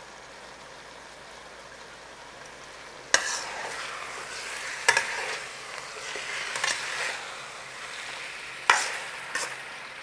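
Chicken pieces sizzling gently in a pan. About three seconds in, a utensil starts turning them over, scraping and knocking against the pan a few times, and the sizzle grows louder.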